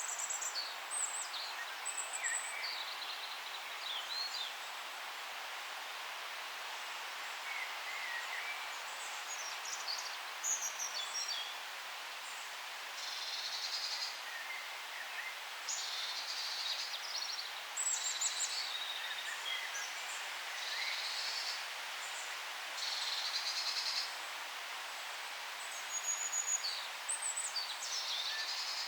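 Forest birdsong: several birds calling and singing in short chirps and trills over a steady background hiss.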